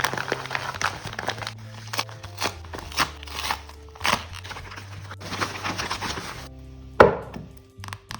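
Crinkling and crackling of plastic packaging being handled and opened, over steady background music. About seven seconds in there is one loud, sharp sound.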